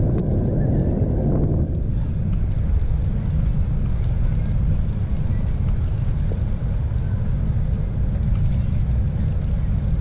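Wind buffeting the microphone of a chest-mounted GoPro on a moving bicycle: a steady, heavy low rumble. A louder, fuller noise over it fades out about two seconds in.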